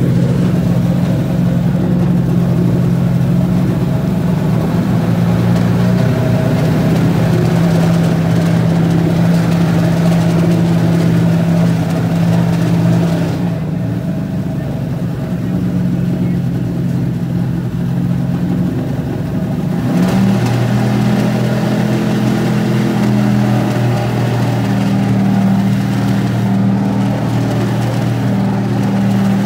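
NASCAR Cup car's pushrod V8 engine warming up, held at a steady raised idle. The note drops lower for several seconds around the middle, then comes back up and holds.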